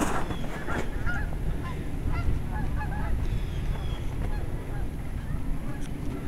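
A flock of geese honking, many short calls overlapping, over a low rumble of wind on the microphone.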